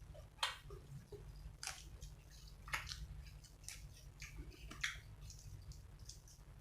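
A person chewing and biting food close to the microphone, with short crisp crunches or smacks about once a second, over a low steady hum.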